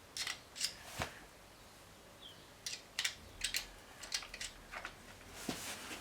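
A series of short, sharp metallic clicks and taps at irregular spacing, some in quick pairs, from hand work on a motorcycle's cam chain tensioner and tools, with a brief rustle near the end.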